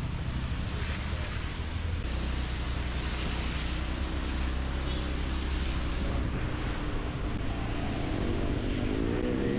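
Riding in a car through heavy rain: steady low engine and road rumble with an even hiss of rain and wet tyres. The hiss thins about six seconds in.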